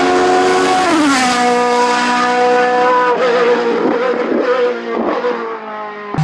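Hillclimb racing car's engine running hard, its pitch dropping about a second in and then holding lower as the car moves away.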